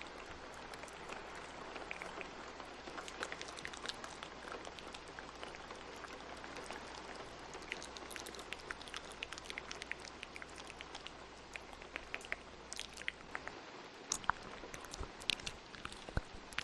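Steady rain noise layered with many short, wet ASMR mouth clicks and smacks. About three-quarters of the way through the steady low background drops out, leaving the mouth clicks more exposed.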